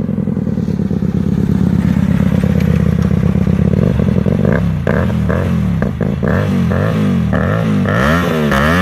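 Hyosung GT250R's V-twin engine through an SC Project replica exhaust, held at raised revs, then blipped repeatedly, the pitch sweeping up and down quickly again and again through the second half.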